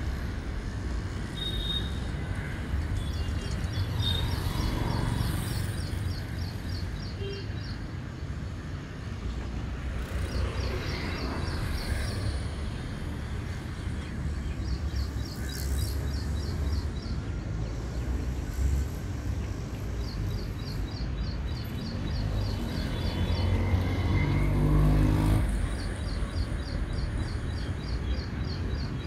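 Low, steady rumble of a distant train approaching through the station yard, growing louder for a couple of seconds about 24 seconds in. Over it, a rapid high chirping trill comes back in short bursts every few seconds.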